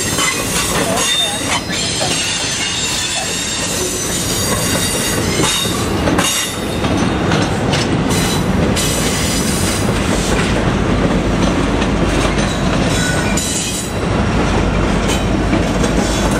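Double-stack intermodal freight cars rolling past, steel wheels clattering over the rails, with a high wheel squeal in the first few seconds. Near the end a heavier low rumble grows in as the mid-train EMD SD70M-2 diesel locomotive, working as distributed power, draws alongside.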